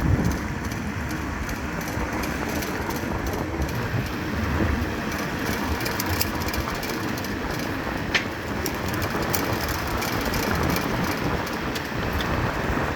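Apex VS-5RS running with a steady noise and a repeated, fast ticking on top of it.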